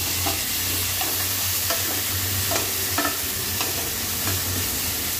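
Shallots with ginger and garlic paste sizzling in hot mustard oil in a stainless steel pot, stirred with a flat spatula that scrapes and taps against the pot several times.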